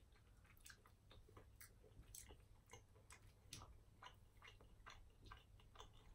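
Faint chewing of a date and hemp seed snack bar: soft, irregular mouth clicks, a few each second.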